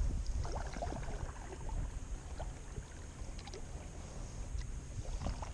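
Kayak paddle working the water: small splashes and drips from the blades in uneven strokes, over a low rumble of wind on the microphone.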